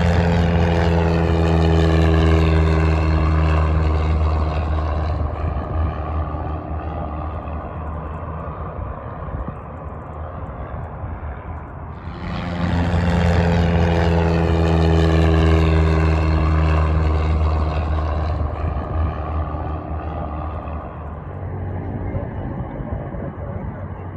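Light aircraft engine drone passing close by twice, about twelve seconds apart. Each pass is loud for around five seconds with a steady low hum and a slight drop in pitch, then fades to a quieter drone.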